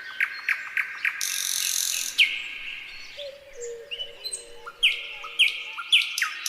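Nightingale singing a varied song: quick series of repeated notes, a harsh buzzy trill about a second in, a low held note in the middle, and a fast run of down-slurred whistles near the end.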